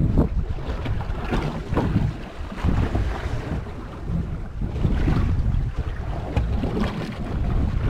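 Wind buffeting the microphone aboard a small fishing boat at sea, in irregular gusts, over the wash of the water.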